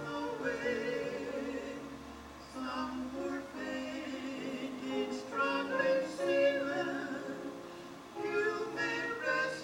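Live gospel music: voices singing a hymn with instrumental accompaniment.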